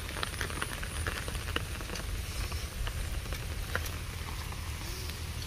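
Light rain pattering in scattered drops over a steady low rumble.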